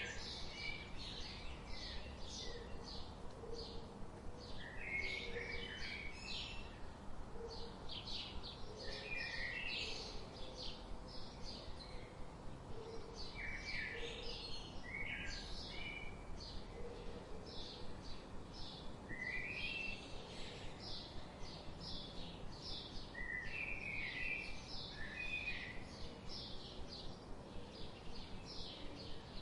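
Birds chirping: a steady stream of short, high chirps several times a second, with fuller lower chirping phrases breaking in now and then.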